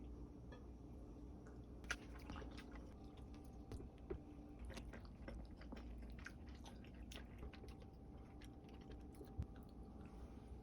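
A person chewing food close to the microphone: faint, irregular wet clicks and smacks, with a few sharper bites, over a low steady hum.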